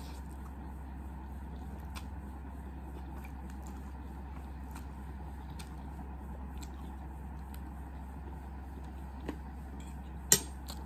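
Close-up eating sounds: faint, irregular clicks of chewing a mouthful of ramyun noodles over a steady low hum. Near the end, one sharp clink of a metal fork against the ceramic plate.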